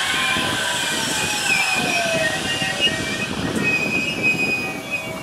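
JR West electric train running slowly along the platform under braking, with high wheel and brake squeals over the rumble of the wheels. A whine falls steadily in pitch over the first two seconds.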